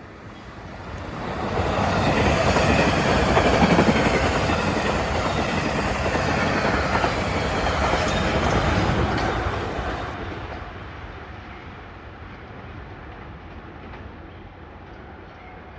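A passenger train passing at speed, its wheels running on the rails. It builds about a second in, stays loud for several seconds, then fades after about ten seconds.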